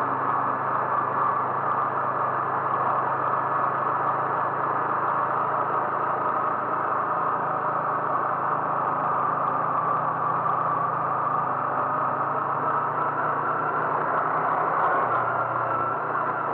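Car engine running steadily, a low hum under an even rush of road noise.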